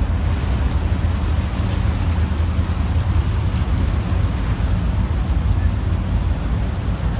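Steady low drone of an excursion motor ship's engine under way, with a wash of wind and water noise over it.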